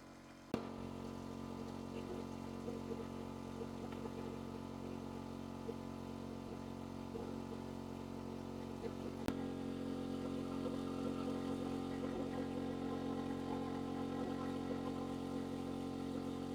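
A small motorcycle engine idling steadily. It starts abruptly about half a second in and runs a little louder after a click about nine seconds in.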